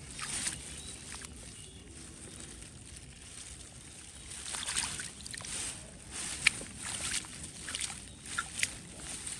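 Shallow water sloshing and splashing in a string of short, irregular splashes, busiest in the second half, with the sharpest about six and a half seconds in.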